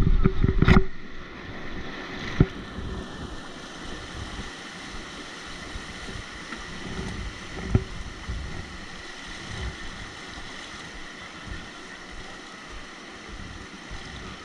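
Steady rush of river water with wind on the microphone, from a raft on a whitewater river. A loud clatter of knocks in the first second and two single sharp knocks later on.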